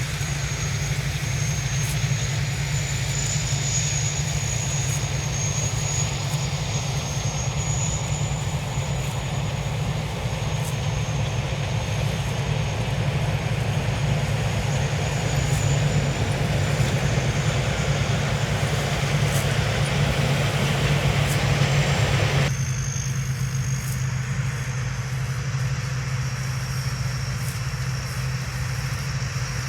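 Rice combine harvester's engine running steadily, with a thin, slightly wavering high whine above it. The background changes abruptly about 22 seconds in, but the engine carries on.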